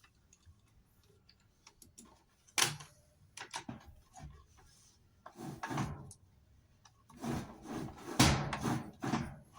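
Scattered knocks, scrapes and rubbing as parts and tools are handled on an opened washing machine during reassembly. There is a sharp knock about two and a half seconds in, then a busier run of scraping and clattering over the last few seconds.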